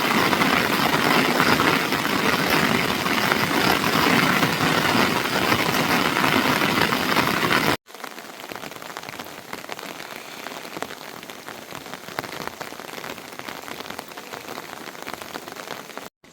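Heavy rain falling as a loud, even hiss. After a cut about eight seconds in, lighter rain follows, with separate drops ticking.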